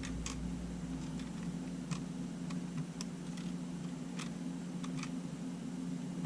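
Light, irregular clicks and ticks of small parts and tools being handled during camera repair, about a dozen scattered through, over a steady low hum.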